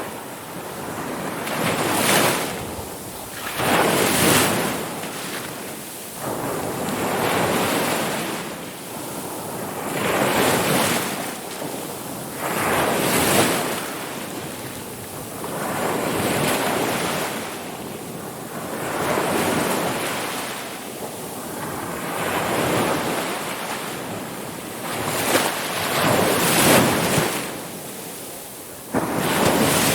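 Ocean waves breaking and washing up the shore, one surge after another every two to three seconds, each swelling to a hiss and falling back.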